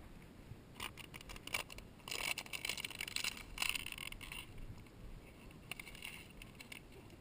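Irregular crackling and rustling clicks, starting about a second in, thickest from about two to four and a half seconds and again briefly near six seconds: a noise made right beside the horse while the rider is mounted.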